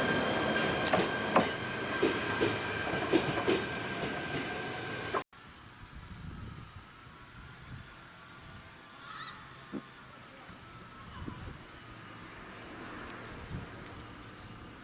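Old JNR-type electric train moving off from the station, with steady tones and a series of knocks and clanks for about five seconds. It cuts suddenly to a much quieter steady hiss with a few faint sounds.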